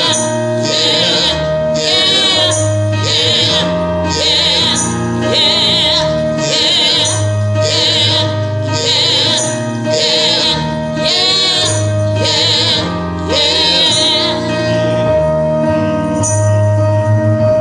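A church choir sings a gospel song over instrumental accompaniment, with a jingling tambourine struck on the beat about once a second. Near the end the voices drop away while the instruments carry on.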